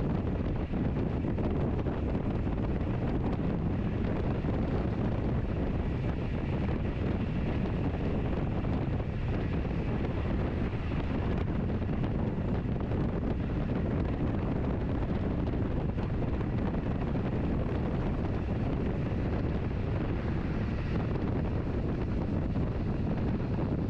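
Passenger train running along the line at a steady pace, a constant low rumble of wheels and running gear mixed with wind noise.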